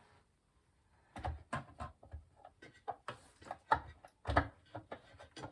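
Plastic parts of a Maytag dishwasher's interior knocking and clicking as they are worked into place: a run of irregular taps and clicks starting about a second in.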